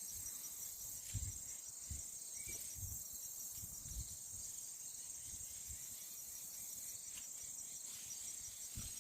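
Steady insect chorus of crickets, a high continuous pulsing trill, with soft low footsteps in the first half.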